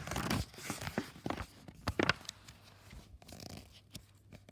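Paper rustling as a picture book's page is turned: a few short swishes in the first two seconds, then quieter handling.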